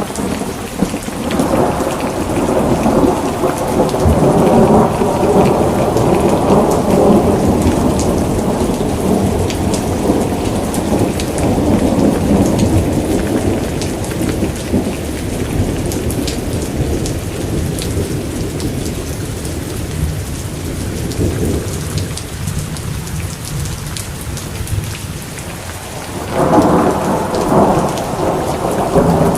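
Steady rain with scattered drop ticks, under long rolls of thunder. One roll rumbles for about twenty seconds before fading, and another begins a few seconds before the end.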